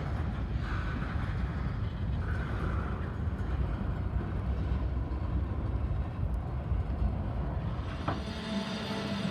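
Union Pacific freight train rolling slowly past, with a steady low rumble of wheels on rails. About eight seconds in there is a sharp click, and a steady high tone joins the rumble.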